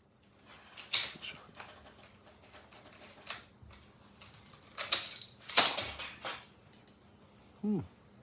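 Bolt-action rifle and gear being handled: scattered metallic clicks and clacks, the loudest a quick cluster about five to six seconds in.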